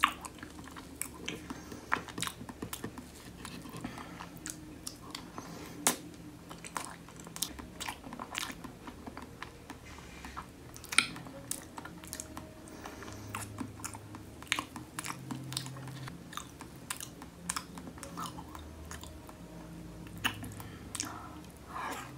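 Close-up chewing and mouth sounds of someone eating strawberry cheesecake with a graham cracker crust, with many short, sharp clicks scattered throughout.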